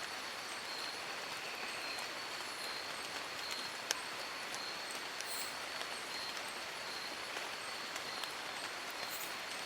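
Steady rain falling on leaves, an even hiss with scattered drops, and one sharp click about four seconds in. A faint steady high tone runs under it.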